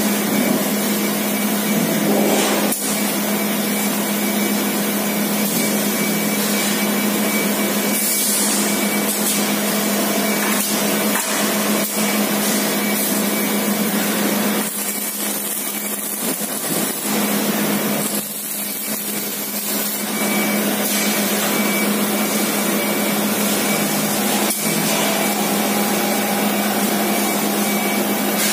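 Factory machinery on an exhaust-muffler production line running steadily: a loud, even rushing noise over a constant low hum, with a faint high whine.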